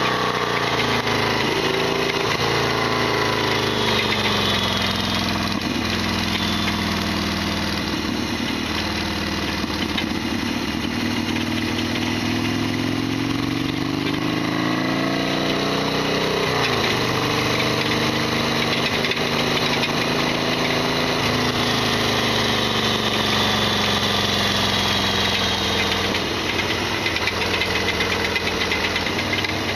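Harley-Davidson Sportster XL1200R's 1200 cc air-cooled V-twin running under way, its revs rising and falling through the gears with a dip and pick-up about halfway through. Loud mechanical rattling, the bike's usual racket, which the owner calls a big abnormal noise.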